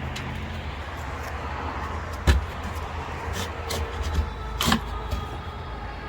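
Sharp knocks from work on wooden concrete-step forms: one loud knock about two seconds in and a second one near five seconds, with a few lighter ticks, over a steady low rumble.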